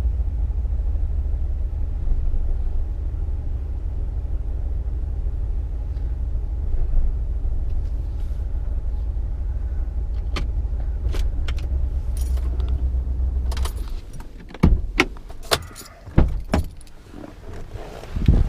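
A vehicle's steady low engine and road rumble heard from inside, cutting out about fourteen seconds in. Then come several sharp clicks and knocks, like keys and handling inside the vehicle, with a louder knock at the end.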